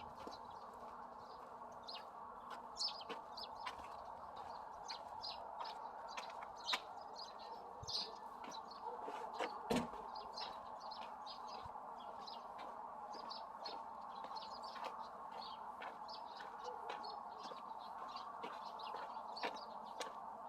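Birds chirping in many short, high notes scattered over a steady background, with a single sharp knock about ten seconds in.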